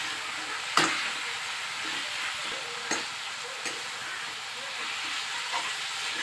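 Potatoes frying in oil and masala in a metal kadai, sizzling steadily while a metal spoon stirs them, scraping and knocking against the pan three times, the loudest knock about a second in.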